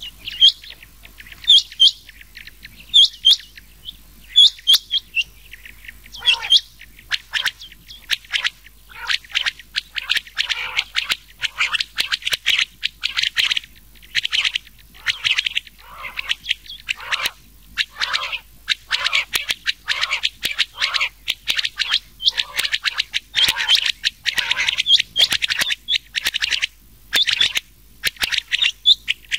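Quail calling, a mix of rain quail and common quail: short, sharp repeated calls, spaced in a few groups at first, then running on rapidly and almost without a break from about six seconds in.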